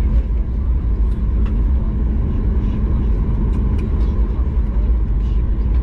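Steady low rumble inside the cabin of a Boeing 737 MAX 8 airliner, with a faint steady hum above it and a few light ticks.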